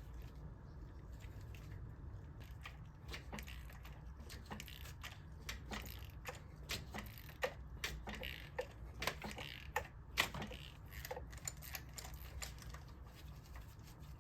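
Hand ratchet and socket clicking in short irregular runs, with small metal clinks, as a tight spark plug is worked out of the Jeep 3.7L V6's cylinder head; the clicks are loudest and busiest through the middle.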